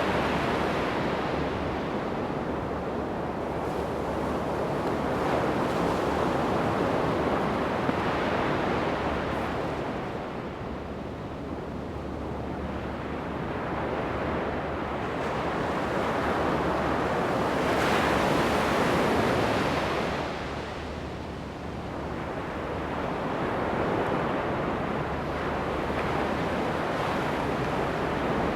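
Ocean waves breaking on a sandy beach, a steady wash of surf that swells and recedes every several seconds, with the biggest break a little past halfway.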